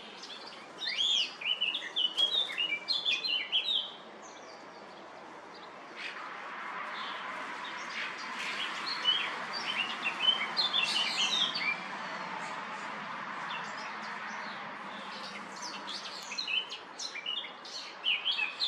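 Songbirds, among them common starlings, chirping and calling in bursts of quick, overlapping chirps and whistles. A steady rushing noise runs under the middle part.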